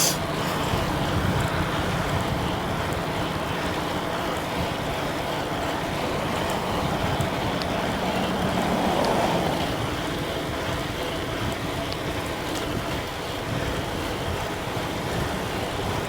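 Steady rush of wind on the microphone of a moving e-bike on a road, swelling briefly about halfway through.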